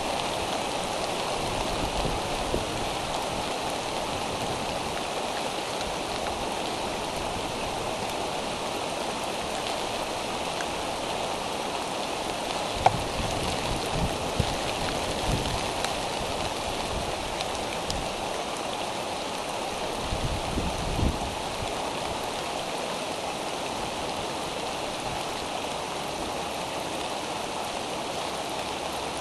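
Steady rain falling, an even hiss, with one sharp tick about halfway through and a few soft low thumps a little after.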